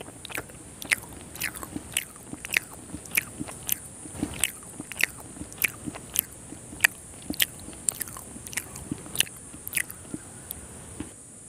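Close-miked chewing of a soft Indian sweet, with wet mouth clicks and smacks at an even pace of a little under two a second. The chewing stops just before the end.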